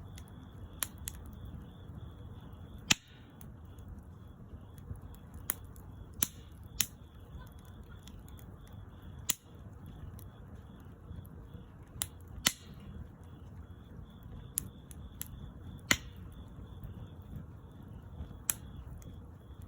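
Wood fire crackling: irregular sharp pops and snaps, a few of them loud, over a low steady rumble of the burning fire.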